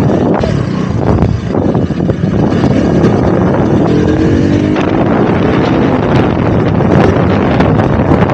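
Loud wind buffeting the action camera's microphone on a moving motorcycle, with the engine running underneath. Its pitch rises briefly about four seconds in.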